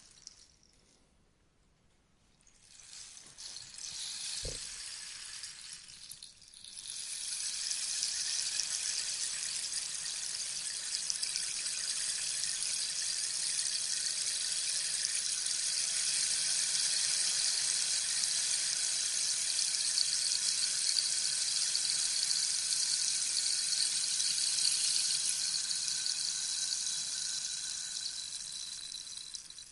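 Rainstick tipped over, its beads or pebbles trickling down through the tube with a rain-like hiss. A short run starts a few seconds in, with a soft knock in it. Then a long, steady cascade lasts about twenty seconds and fades out near the end.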